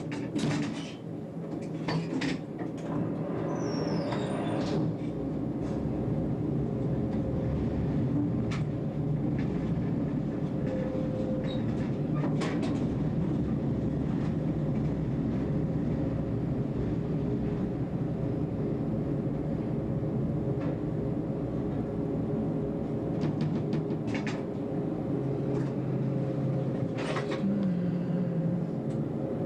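Tram running, heard from the driver's cab: a steady motor and gear hum with scattered clicks and knocks from the wheels on the track, and a brief high squeal a few seconds in.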